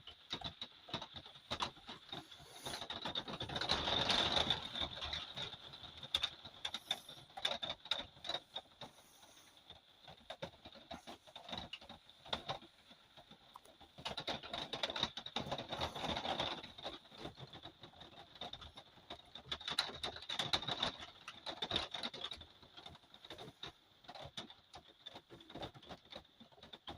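Rain pattering on a roof: a dense run of irregular drips and ticks that swells heavier three times, with a faint steady high whine underneath.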